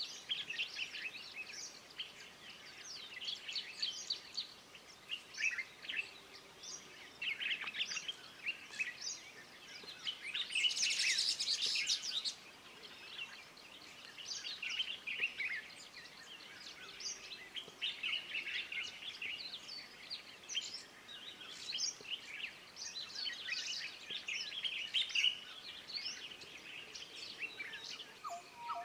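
Wild songbirds chirping and singing, many short calls and trills overlapping, with a louder, denser stretch of calls about ten seconds in.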